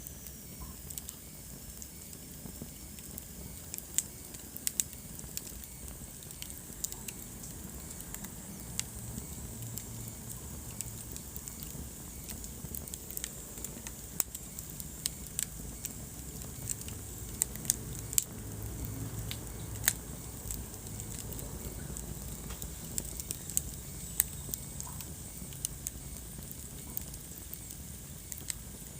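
Wood fire crackling and popping: frequent irregular sharp snaps over a steady low rumble of burning.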